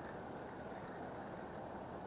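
Wind blowing steadily: an even rushing noise with no distinct events.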